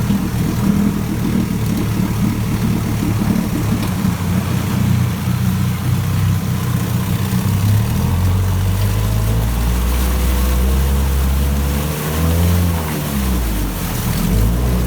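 1965 9.5 hp OMC two-stroke twin outboard motor running on its cold start. For the first several seconds it runs rough and uneven, behaviour typical of a Johnson outboard still cold. About eight seconds in it settles into a steadier tone, with a brief dip and rise in engine speed near the end.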